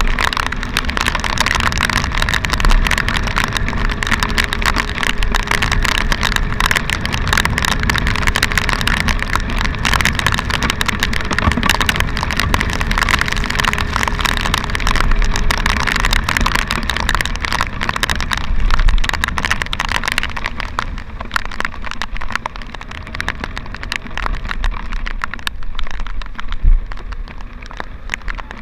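Motorcycle on the move: the engine runs under steady wind and road noise on the rider's camera microphone, with a thin steady tone that stops about two-thirds of the way through. The hiss eases off in the last few seconds.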